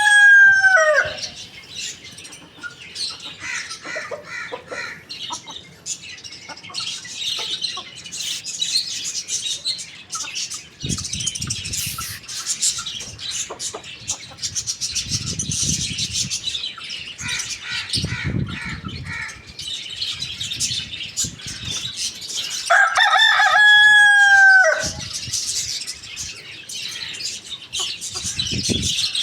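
Rooster crowing: the falling tail of one crow right at the start, then a full crow about 23 seconds in, its loudest sound. Between the crows, hens cluck now and then and small birds chirp throughout.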